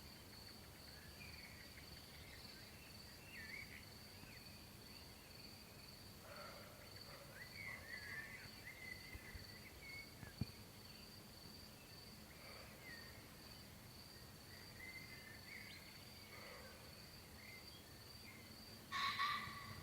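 Faint field ambience: a steady, high-pitched insect trill with scattered bird chirps over it, and one louder call near the end.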